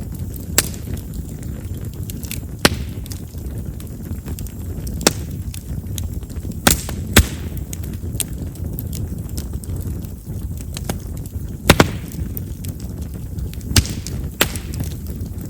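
Chestnut firewood burning in a bonfire, with about ten sharp pops and crackles at irregular intervals over a low, steady rumble. The popping is typical of chestnut, whose large vessels make the wood burst as it burns.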